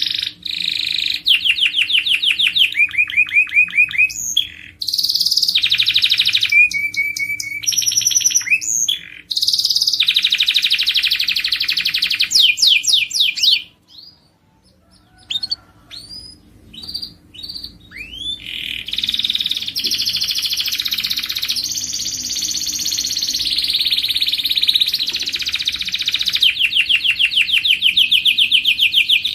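Domestic canary singing: fast repeated trills and rolling tours that change speed and pitch from phrase to phrase. About halfway through there is a brief pause with a few short chirps, then a long unbroken roll.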